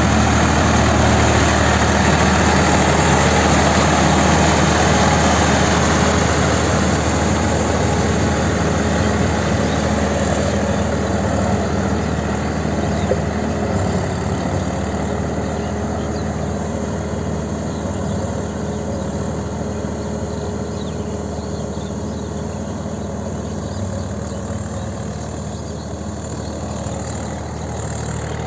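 Swaraj 855 4WD tractor's three-cylinder diesel engine running steadily, slowly growing fainter through the second half.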